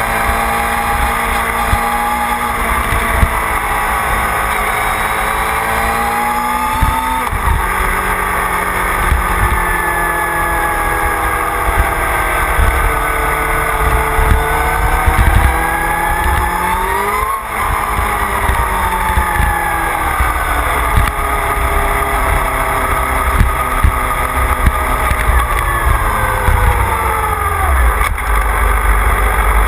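Motorcycle engine heard from a camera mounted on the bike at speed, its pitch climbing and falling again and again as it accelerates, shifts and slows, with a sharp peak about halfway through followed by a quick drop. Strong low wind rumble on the microphone runs under it.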